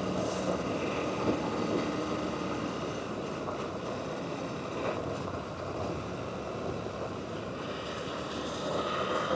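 Adventure motorcycle riding on a loose gravel road: steady engine and road noise with wind.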